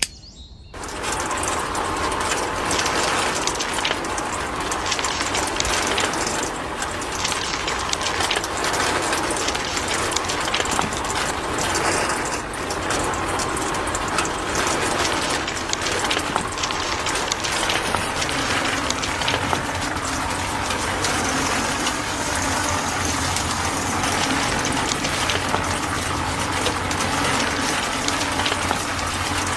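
Small motor-driven gears of a home-made miniature machine running steadily with a fast, fine clicking rattle, starting under a second in.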